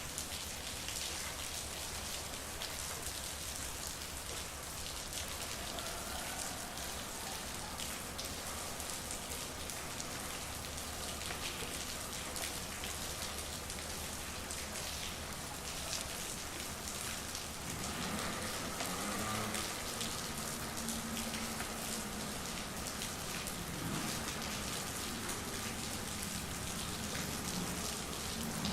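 Steady rain falling on street surfaces, a continuous hiss dotted with the hits of separate drops. About two-thirds of the way through, a faint low pitched sound joins in beneath the rain.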